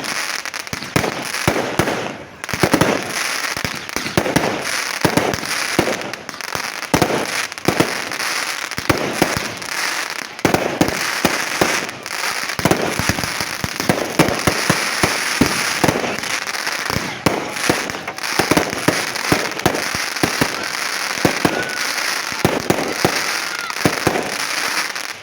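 Fireworks display: a fast, unbroken barrage of bangs and crackling, many reports every second.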